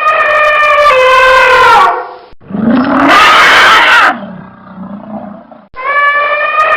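An animal's high pitched call with a falling end, given twice in identical form, with a harsh roar and a lower drawn-out sound between the two calls.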